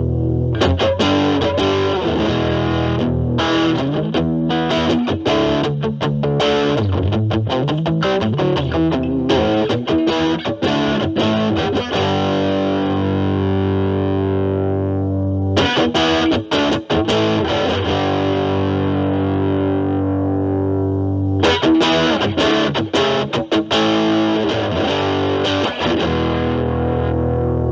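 Distorted electric guitar: a Stratocaster with single-coil pickups is played through an Ibanez Super Metal mini distortion pedal, with its Edge knob turned down low, into a Marshall Valvestate amp's clean channel. It mixes picked single notes with strummed chords left to ring out. Later the tone is one the player likens to an Ibanez SD-9 Sonic Distortion.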